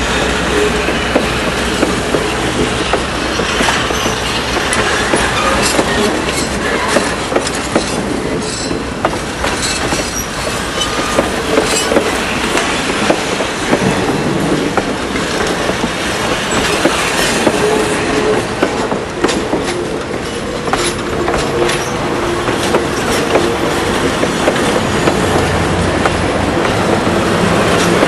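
Train rolling along the track: a steady rumble of wheels on rail, with repeated clicks from the rail joints and a faint wheel squeal.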